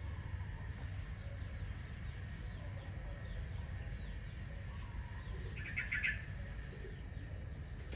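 A bird calling, with a short, rapid chattering run of notes about three-quarters of the way in and a few faint chirps before it, over a steady low rumble.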